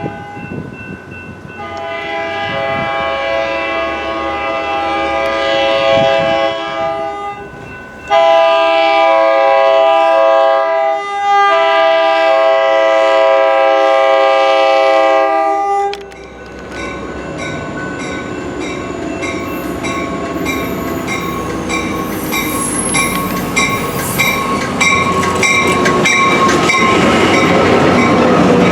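Train horn sounding a multi-note chord in several long blasts, the loudest two back to back near the middle, then the train rushing past with wheels clicking over the rail joints and some high metallic squeals.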